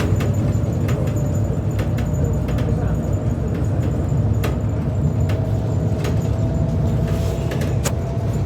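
City bus running, heard from inside: a steady low engine and road rumble with small rattles and clicks, and a faint steady whine in the second half.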